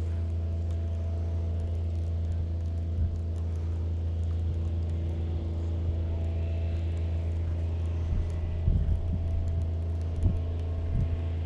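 Steady low mechanical hum of a motor running at constant speed, with a few soft knocks in the second half.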